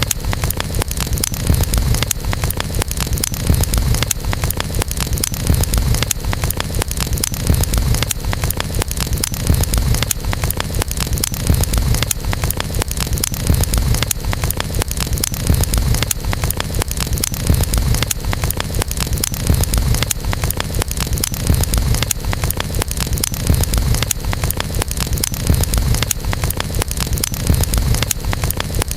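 Wood campfire burning, with many small irregular crackles and pops over a steady low rumble.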